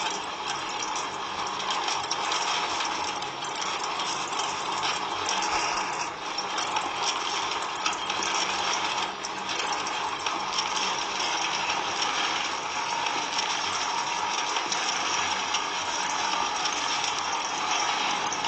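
Steady mechanical rattling and clatter, like a small motor driving gears, with fine rapid ticks throughout.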